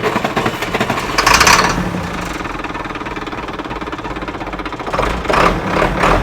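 Ford truck engine being cranked over on the starter with a steady, even rhythm, not yet catching, with two brief louder surges about a second in and near the end.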